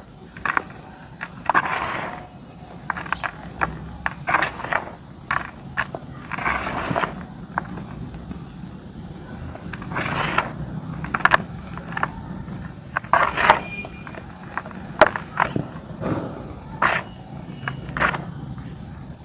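Dry white clay crunching and crumbling in irregular bursts: scattered sharp crackles with a few longer crunches.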